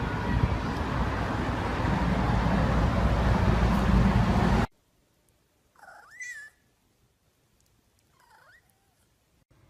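A steady noisy rush that cuts off abruptly about halfway through, then a domestic cat meowing twice: a short rising-and-falling meow, and a fainter one about two seconds later.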